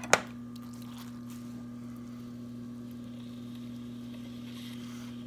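Electric potter's wheel running with a steady low hum while a clay platter is thrown, with two sharp clicks right at the start.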